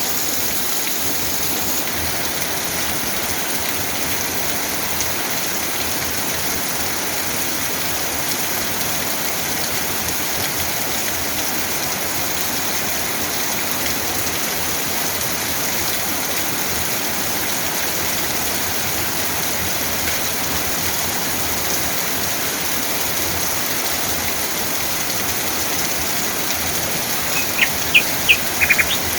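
Steady rain falling. Near the end a bird chirps a few short, sharp notes.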